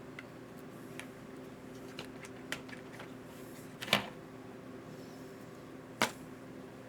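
Light clicks and taps of small metal hardware and tools being handled during RC car shock work, about eight of them, with two sharper knocks about four and six seconds in.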